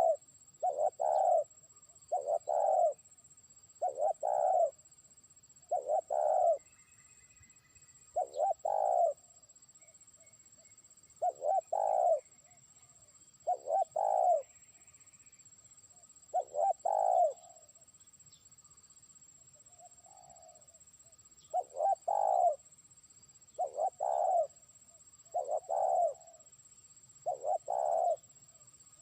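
Spotted dove (terkukur) cooing, a short phrase of low coos about every two seconds, with a pause of a few seconds about two-thirds of the way through. It is a trained decoy bird calling out to challenge distant rival doves.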